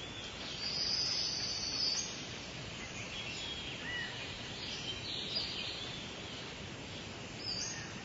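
Wild birds calling: high, thin calls over a steady outdoor hiss, a long one starting about half a second in, another a few seconds later and a short one near the end.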